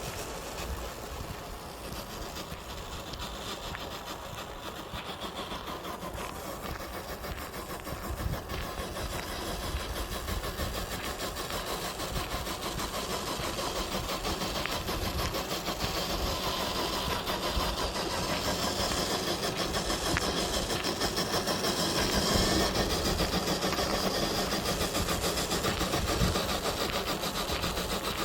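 Electric motor and gears of an FMS FJ40 RC crawler truck running as it drives over the forest floor, a continuous whir that grows louder through the second half.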